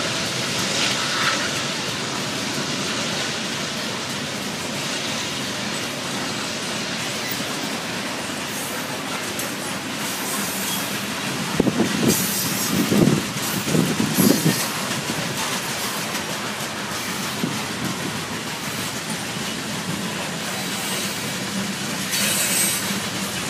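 Norfolk Southern freight train's coal hopper cars rolling past on the rails: a steady noise of steel wheels on track, swelling briefly a few times about halfway through.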